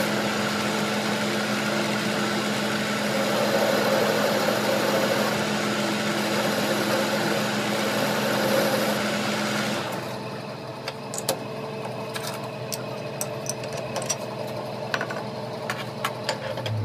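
A machine or engine running steadily with a constant hum, cutting off abruptly about ten seconds in, followed by a quieter stretch of scattered sharp metallic clicks and taps.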